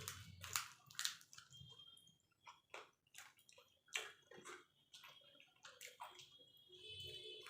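Golgappas (puchkas) being eaten: the crisp fried shells crunch and are chewed wetly, with a string of short, irregular crunches and clicks.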